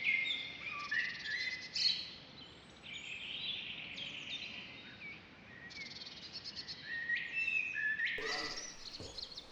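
Several small birds singing and calling together: a busy, overlapping chorus of high chirps and quick trills.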